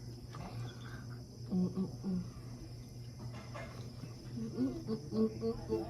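A steady high trill of insects in the background. Twice a person hums a few short, level notes: about a second and a half in, and again near the end.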